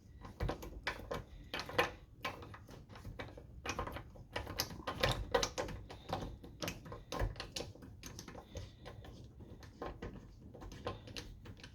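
Irregular clicks, taps and light knocks of small engine parts and tools being handled, with no steady rhythm.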